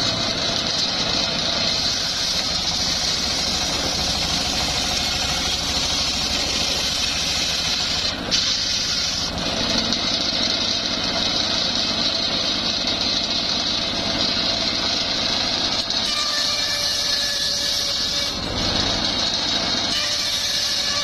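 Homemade engine-driven circular sawmill running steadily, engine hum under the loud hiss of the spinning blade, with a brief dip in the hiss about eight seconds in.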